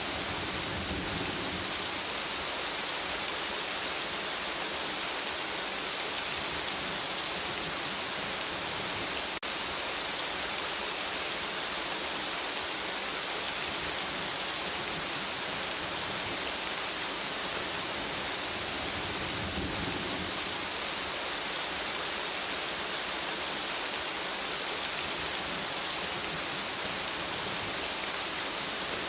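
Steady rain falling on forest foliage, an even hiss strongest in the high range. Two soft low rumbles come in, one at the start and one about two-thirds of the way through.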